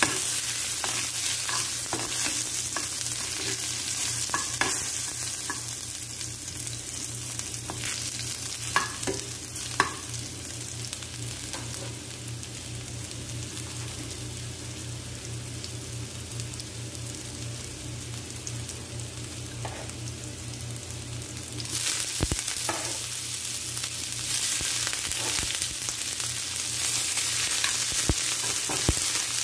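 Garlic sizzling in hot oil in a frying pan, stirred with a metal spoon that now and then ticks against the pan. About three-quarters of the way through, the sizzle gets louder as sliced onions go in.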